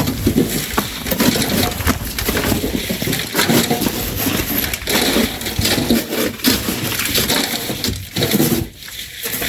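Shovels scooping and tossing sand, a dense run of irregular crunching scrapes and knocks, with a brief lull near the end.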